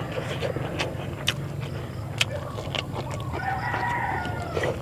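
Close-up eating noises from hand-eating rice and fish: sharp mouth and lip clicks while chewing. About three and a half seconds in, a rooster crows for over a second, over a steady low hum.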